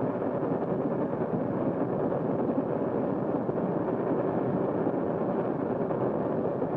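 Steady rushing rumble of a moving train with an open car racing alongside it, an even noise with no clear beat, heard through an early-1930s film soundtrack.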